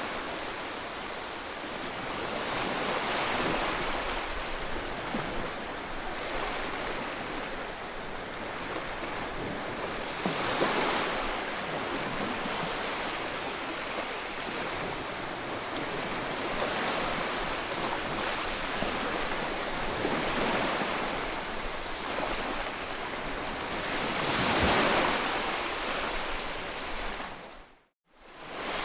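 Ocean waves breaking and washing on the shore, a steady rush that swells as each wave comes in. The sound drops out briefly near the end, then returns.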